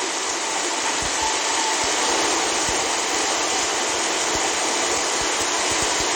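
A steady, even rushing noise, like a continuous background ambience, with a few faint low knocks here and there.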